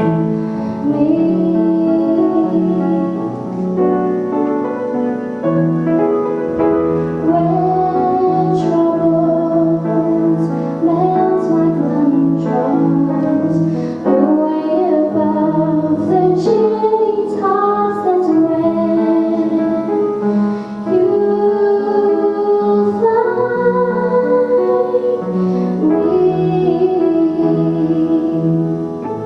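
A woman singing a slow song with vibrato over keyboard accompaniment.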